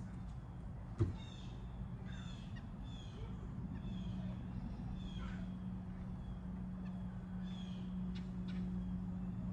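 Wild bird calling a series of harsh, nasal, slightly falling notes, about two a second for several seconds, then twice more near the end. A single sharp knock about a second in, and a steady low hum underneath.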